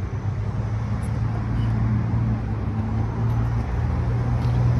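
Motor vehicle engine idling: a steady low hum with a faint background rumble.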